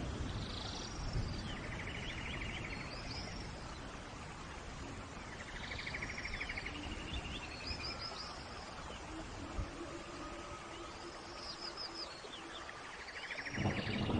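A songbird singing the same short phrase of high, sweeping whistles and a trill, repeated about every four to five seconds, over a steady hiss of rain in a forest.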